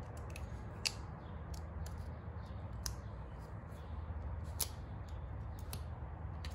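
Scattered light clicks and scrapes of a hand tool working at a stuck Phillips screw in a two-stroke dirt bike's crankcase, over a steady low hum.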